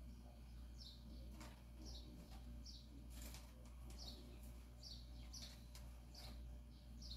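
Faint, short, high bird chirps, each sliding downward, repeated about once a second over a low steady hum, with a few soft knocks in between.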